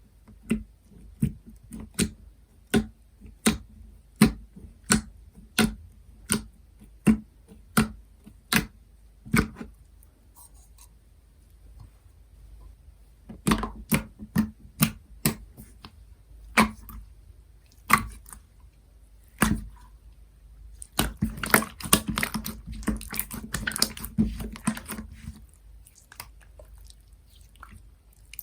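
Jiggly slime being pressed and squished by hand: a regular run of sharp wet pops, about one every three-quarters of a second, for the first ten seconds. After a short lull come scattered pops, then a dense stretch of crackling squelches about two-thirds of the way through.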